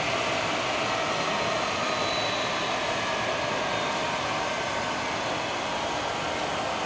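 Jet engine noise of a Mitsubishi F-2A fighter's single turbofan in flight: a steady, whooshing roar that slowly fades.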